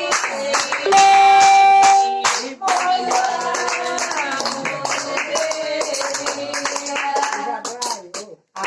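Group singing with rhythmic hand clapping. About a second in, a loud steady tone is held for about a second.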